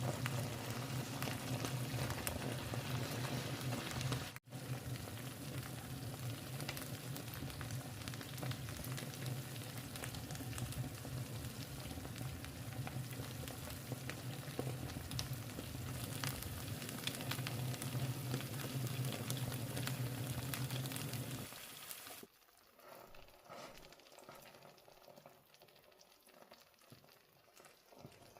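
Food frying and sizzling in a pan over a steady low hum. There is a brief break about four seconds in, and a little before the end the sound drops to much quieter, scattered kitchen noises.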